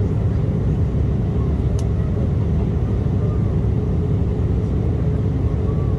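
Steady low rumble of cabin noise inside an Embraer E175 airliner, its engines and airflow running at an even level.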